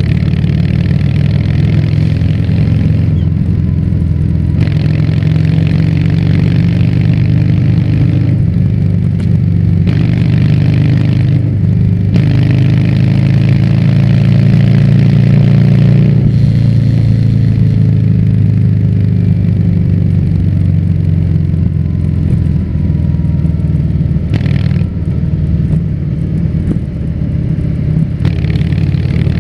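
Harley-Davidson Fat Bob 114's Milwaukee-Eight V-twin running through a Vance & Hines exhaust while riding, loud and steady. The engine note rises to its loudest about halfway through, then drops back a little.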